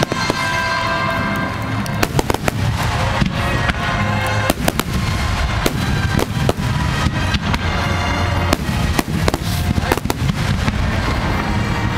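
Fireworks shells bursting in quick succession at close range, sharp cracks and booms overlapping, with music accompanying the display.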